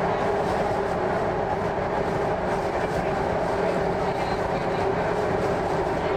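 Running noise inside a Hyundai Rotem-built MTR East Rail Line R-train car in motion: a steady rumble with a constant hum and no pauses.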